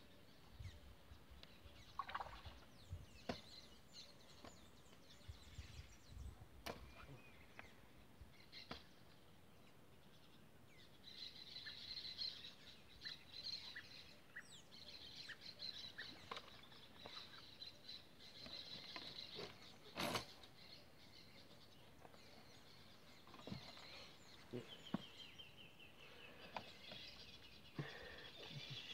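Faint outdoor birdsong: scattered chirping calls, then a fast run of repeated notes near the end, over scattered knocks and clicks, with one sharp click about two-thirds of the way through.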